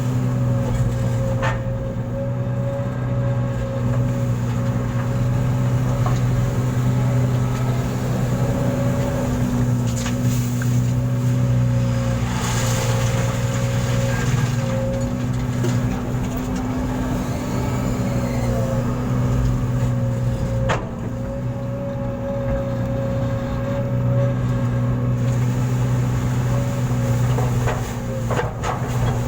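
A large engine running steadily at a constant speed, with a few faint knocks.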